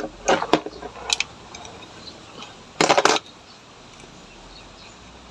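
Small metal carburetor parts clicking and clinking as they are handled and taken off, with a louder metallic clatter about three seconds in.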